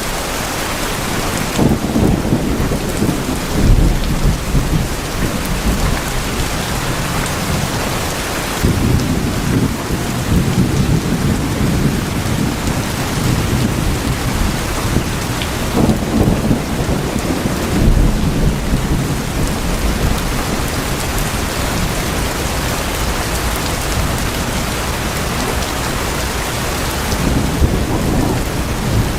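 Heavy rain falling steadily on tin roofs, with low rolls of thunder swelling up several times.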